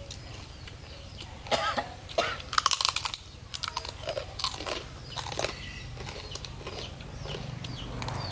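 People chewing and crunching mouthfuls of raw fish and fresh herbs, with scattered short wet clicks from mouths and fingers.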